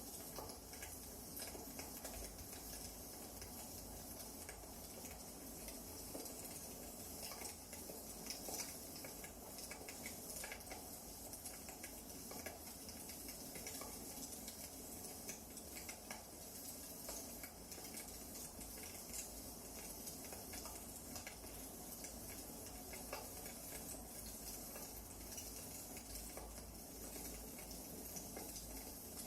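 Wood fire burning in a fireplace, crackling steadily with many small scattered snaps and pops.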